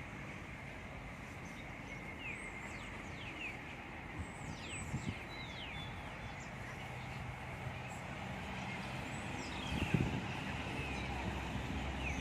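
Steady outdoor background noise with a scatter of short, high, falling chirps, a few about two to five seconds in and more near ten seconds. A low hum joins from about eight seconds in.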